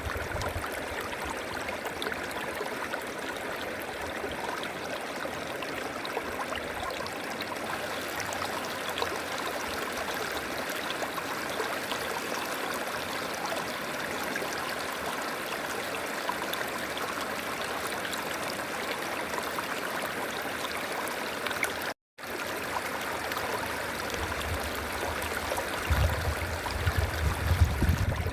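River water flowing steadily, a continuous rushing hiss. The sound drops out for a split second about three-quarters of the way through, and a low rumble rises under the water near the end.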